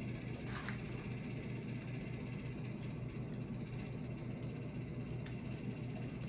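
Faint crunches of a crispy fried chicken sandwich being chewed with the mouth closed, a few soft clicks over a steady low hum.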